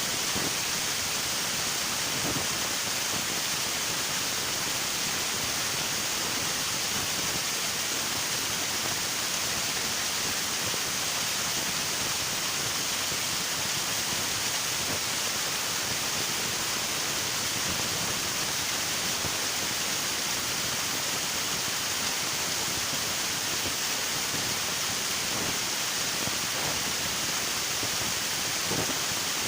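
River water rushing steadily: an even, unbroken hiss of flowing water, with a few faint splashes.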